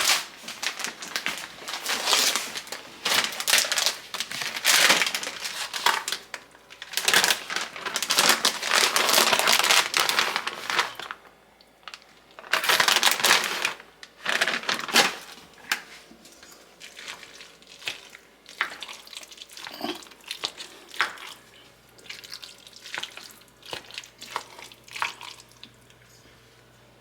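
Plastic bag of shredded cheese crinkling in bursts of loud rustling as cheese is shaken out. Quieter scattered clicks and ticks follow in the second half.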